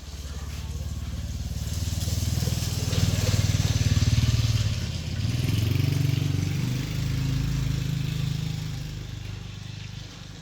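A motor or small engine running, swelling in the middle and shifting in pitch a little past halfway, then fading toward the end, with a hiss over it.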